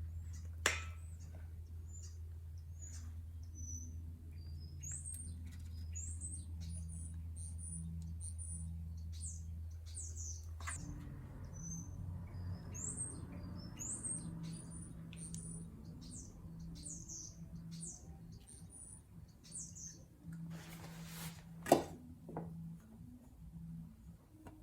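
Small birds chirping: short high-pitched calls, several a second, over a low steady hum that stops about eleven seconds in. A single sharp knock near the end.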